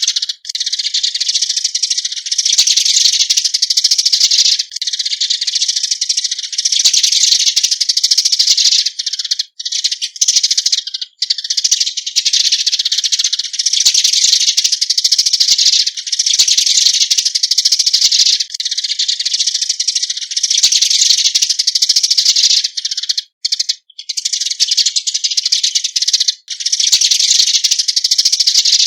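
Eurasian tree sparrows calling as a flock: dense, high-pitched chirping that runs almost without a break, with only a few short pauses.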